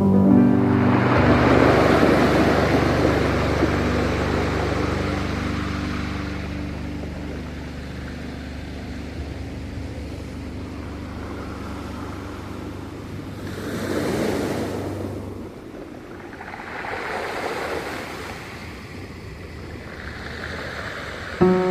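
Ocean waves washing in and breaking, swelling and ebbing several times, under a low held music chord that fades away about two-thirds of the way through.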